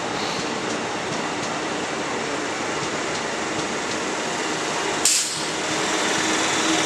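Train running through the station, with steady wheel and rail noise. There is a single sharp knock about five seconds in, then a steady engine hum grows louder near the end.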